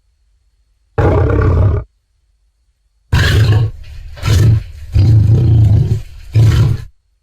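Tyrannosaurus rex roar sound effects: one roar lasting nearly a second starts about a second in. After a pause comes a longer run of four roaring pulses with a deep rumble, which ends shortly before the close.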